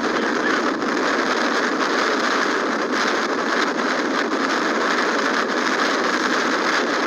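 Loud, steady rush of tornado wind noise on the camera's microphone.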